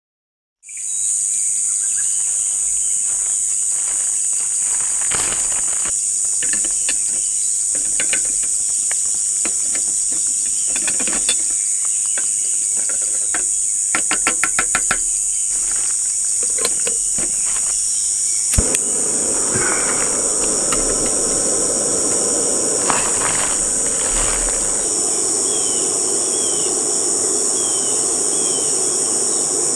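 Steady, high-pitched chorus of insects shrilling without a break, with scattered clicks and taps. A few short falling chirps come near the end.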